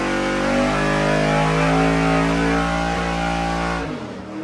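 Carbureted 5.3-litre GM V8 running hard at full throttle under load during a dyno power pull, ignition timing set at 34 degrees; a little before four seconds in it comes off the throttle and the sound drops away sharply.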